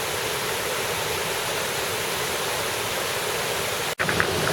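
Steady rush of river water tumbling over a waterfall, with a brief cut-out just before the end, after which the rush resumes a little louder.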